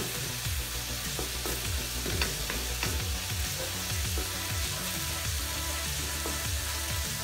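Diced tomatoes, onions and chilies sizzling gently in an aluminium wok over a low flame while a wooden spatula stirs them, scraping and knocking against the pan many times at an irregular pace.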